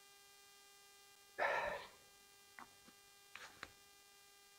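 A short noisy slurp, a sip of hot tea, about a second and a half in, then a few soft clicks. A faint steady electrical hum runs underneath.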